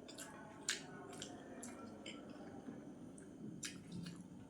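Wet mouth sounds of eating rice with vegetable curry: soft squelching chews and a scattered handful of short lip-smacking clicks, the sharpest about a second in and several more near the end.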